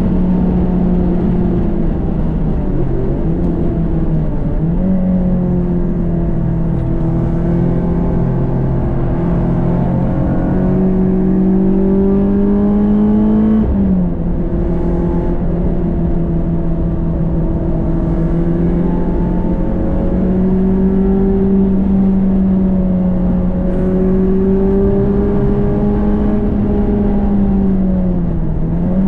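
Renault Clio 197 Cup's naturally aspirated 2.0-litre four-cylinder engine under hard track driving, its note climbing steadily with revs. It drops sharply about 14 s in, as at a gear change, and dips and picks up again early on and near the end, over steady road and wind noise.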